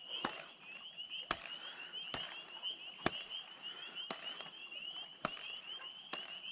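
A woodpecker tapping on wood in single sharp knocks, irregularly about once a second, over a steady high-pitched chirring trill from the surrounding wildlife.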